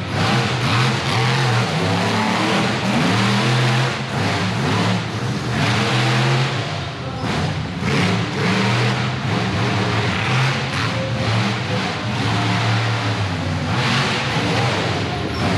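Monster truck engine running loud and revving repeatedly, its pitch rising and falling again and again.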